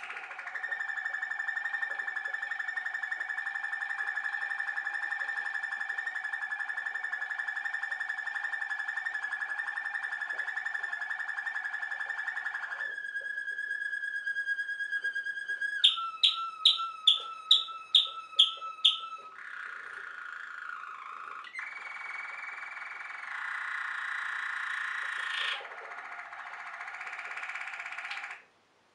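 Waterslager (Malinois) canary singing a long song of rolling tours: one unbroken roll for about twelve seconds, then a shorter one, a run of about eight loud, sharp notes, and further rolls before it stops abruptly near the end.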